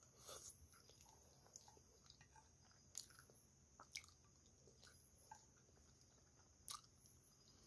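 Faint close chewing and wet mouth sounds from eating creamy pasta, with a few short sharp clicks.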